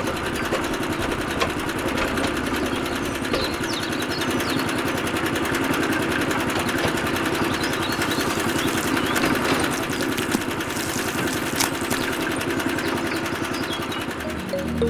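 A small motor running steadily with a fast, even buzz.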